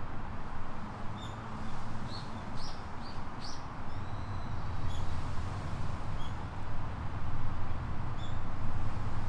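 Small birds chirping in quick short calls, several in a cluster early on and a few more later, over a steady low rush of outdoor background noise.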